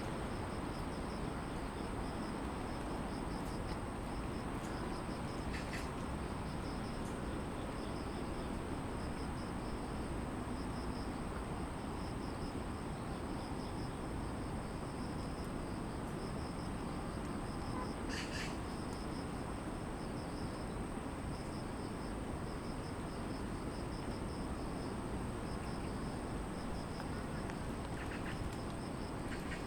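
Grass insects calling, one as a continuous high trill and another as a regular pulsing chirp, over the steady hum of distant city traffic. Three brief sharp sounds stand out, about six seconds in, midway and near the end.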